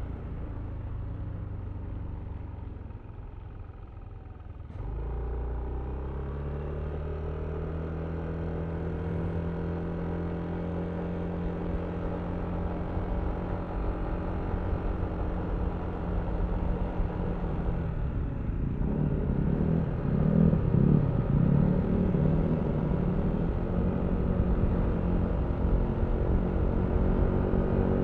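Yamaha Aerox V3's 155 cc single-cylinder scooter engine under way. It drops back for a few seconds, then picks up sharply about five seconds in, with its pitch climbing steadily as the scooter gathers speed. A rough, noisy rumble covers it for several seconds past the middle before the engine tone comes through clearly again.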